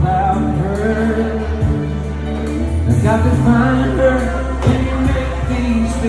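A man singing a slow ballad over a karaoke backing track with bass and drums.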